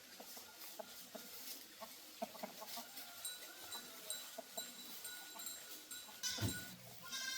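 Faint scattered clicks and small knocks, a dull thump about six seconds in, then an animal's wavering call beginning near the end, like a farm animal bleating.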